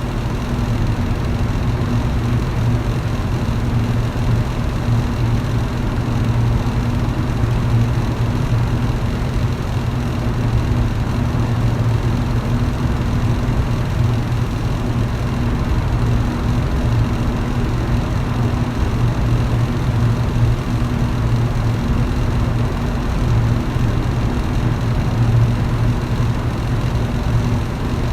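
Electric fan running steadily, a low motor hum under an even whoosh of moving air.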